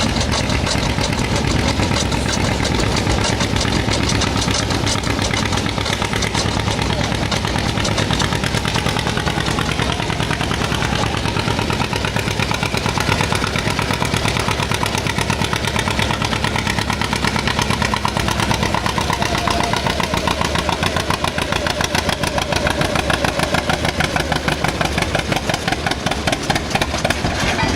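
Modified pulling tractor's engine running loud and steady, with a fast, even pulse that grows clearer in the last several seconds.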